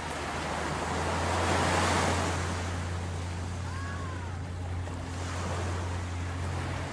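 Sea waves washing in, the surf noise swelling to its loudest about two seconds in, over a steady low hum.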